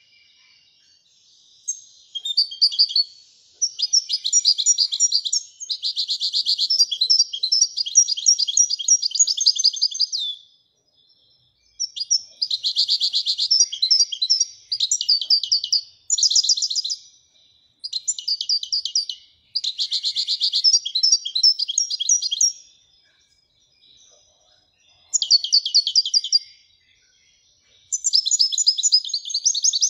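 Moroccan goldfinch singing in the Widani song style: about ten phrases of fast, high twittering notes, each a second or two long, with short pauses between them.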